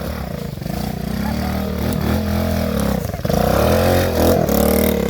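A pit bike's small engine revving up and down, with brief drops in revs about two and three seconds in and getting louder from about three seconds in.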